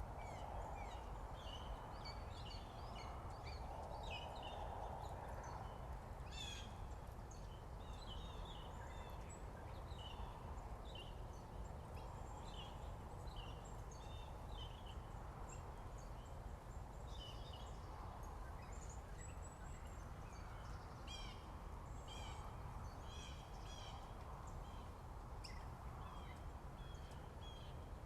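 Several wild birds chirping and singing in short, overlapping phrases and trills over a steady low background hiss.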